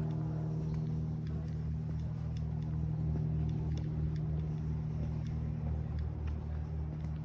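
A steady, low mechanical hum with a pulsing low throb, like a motor or engine running nearby. Footsteps sound at an even walking pace, about one every half second or so.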